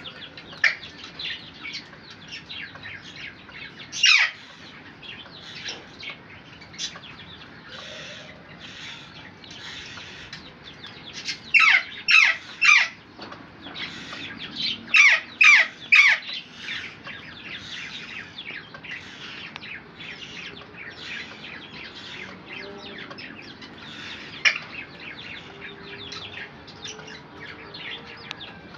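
Parrots calling: continual small chirps and chatter, broken by loud harsh calls that fall in pitch, one about four seconds in, a run of three near the middle and four more in quick succession a few seconds later.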